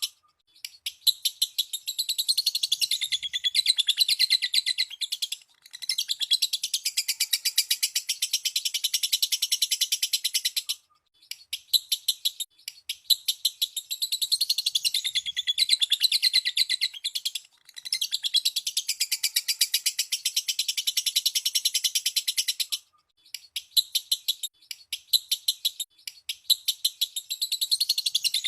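Lovebird ngekek: long runs of very fast, high, chattering chirps, each run lasting about five seconds and broken by brief pauses. It is a lure recording meant to set other lovebirds singing.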